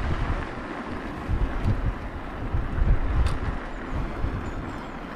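Wind buffeting an action camera's microphone over the low rumble of an e-bike rolling along the road, with a faint tick about three seconds in.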